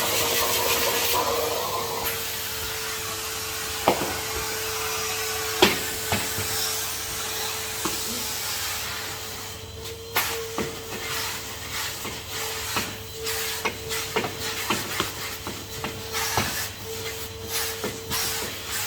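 Henry HVR200 vacuum cleaner running with a steady whine and hiss of suction. Sharp clicks and knocks come through it, a few early on and then many, irregularly, from about halfway.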